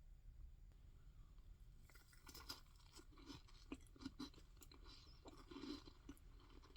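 Faint close-miked chewing of soft Japanese cheesecake: wet mouth clicks and small smacks, starting about two seconds in over a low steady hum.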